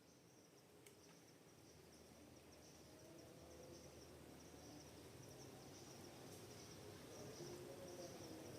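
Faint outdoor ambience: insects chirring in a steady, pulsing high trill, over a low rumble that slowly grows louder.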